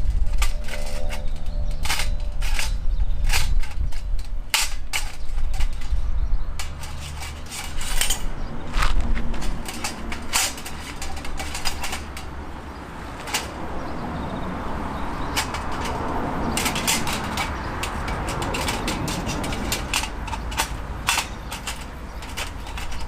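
Wood fire crackling and popping in a fire-pit stand, with irregular sharp cracks throughout. A steady hiss builds up from about fourteen seconds in.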